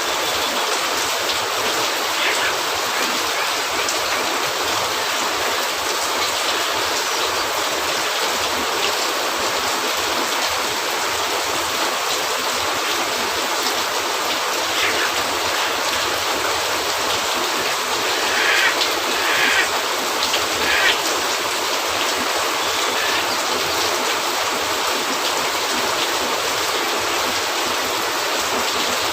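Steady heavy rain hissing on a cabin roof, with a few brief crackles and pops from a wood fire, several in a row about two-thirds of the way through.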